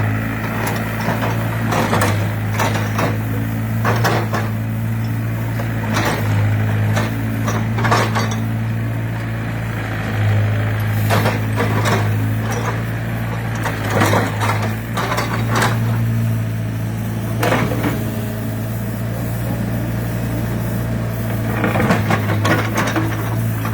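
Hyundai excavator's diesel engine running at a steady idle, with irregular sharp metallic clanks and knocks over it.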